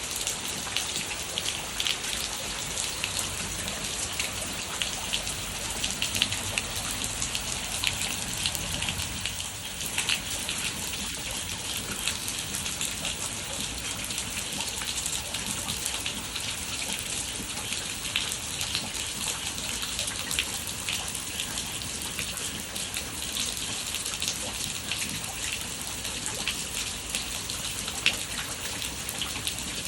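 Steady rain falling, with many close raindrops ticking on a hard surface.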